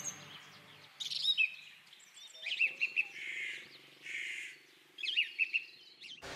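Small birds chirping: several short runs of quick, high chirps, with pauses between.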